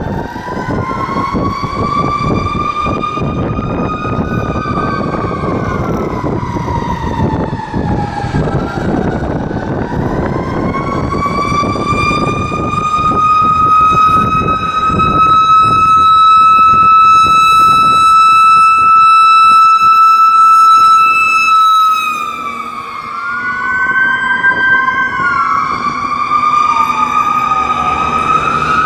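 Emergency-vehicle sirens of responding fire apparatus wailing in slow rising and falling sweeps. One tone holds steady and high for several seconds in the middle, then winds down. Near the end a second siren sweeps more quickly, all over a low engine and road rumble.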